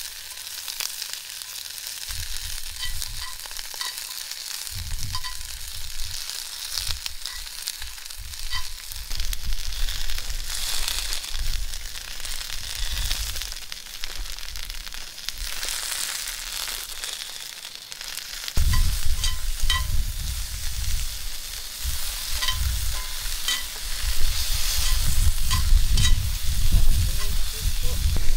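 Edamame frying in sesame oil in a small cast-iron skillet, hot enough to start scorching: a steady sizzle with scattered pops, and metal tongs clicking and scraping as the pods are turned. A low rumble joins a little past halfway.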